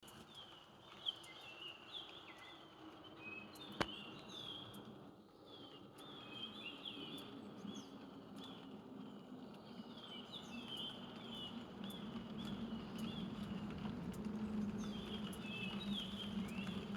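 Wild forest birds repeatedly giving short, high chirping calls over steady rain. There are two sharp taps, about a second and four seconds in, and the rain grows slightly louder toward the end.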